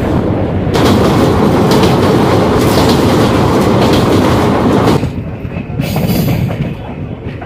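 Passenger train running across a steel truss bridge, with loud rumble and clatter of the wheels on the rails heard from an open carriage door. About five seconds in it drops suddenly to a quieter clatter with a few sharp clicks.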